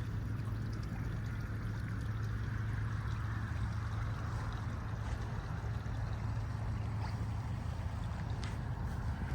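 Rhine river waves washing against the bank, an even rushing wash, under a steady low hum.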